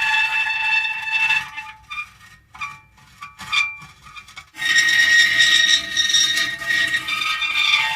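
Metal creaking in long, high-pitched squeals, broken in the middle by a quieter stretch of short squeaks and clicks before a loud squeal starts again.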